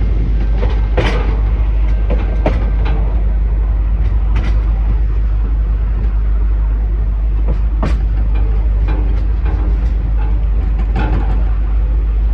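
Heritage train running along the line, heard from aboard: a loud, steady low rumble with irregular sharp clanks and clicks every second or so.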